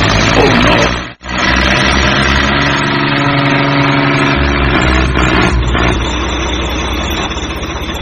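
Tractor engine running steadily, with a sudden brief break about a second in.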